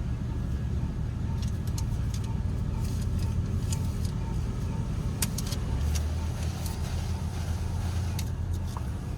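Touch-free car wash high-pressure rinse jets spraying against the vehicle, heard from inside the cabin: a steady low rumble with sharp spattering hits as the water strikes the body, from about a second and a half in until near the end.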